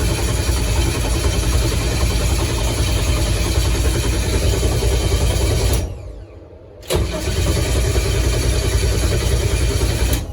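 Starter cranking the car's engine over with no ignition, to prime the oil system after weeks of sitting. Two long cranks, with a break of about a second a little past the middle.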